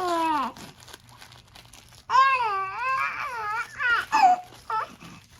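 A baby's voice fussing and babbling: a falling whine at the start, then a long, high, wavering whine about two seconds in, followed by a few short squeals.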